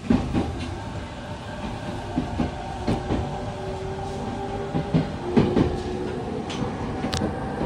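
Izukyu 3000 series electric train running, heard from inside the car: steady wheel-and-rail rumble with irregular clicks as the wheels pass over rail joints.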